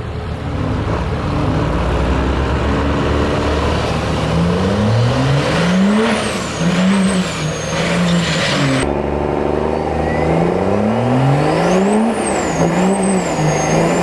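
Pickup truck engine accelerating hard down a drag strip, its pitch climbing and dropping back through several gear shifts, with a high turbo whistle rising and falling along with it. The same run sound comes twice, the second starting around two-thirds of the way through.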